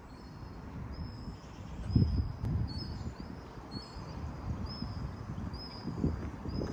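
A small bird calling over and over in short, high chirps, about two a second, over a low outdoor rumble with a couple of louder bumps.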